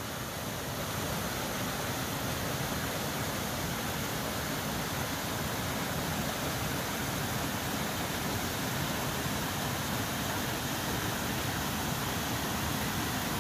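Small waterfall cascading down a hillside: a steady rush of falling water, a little louder from about a second in.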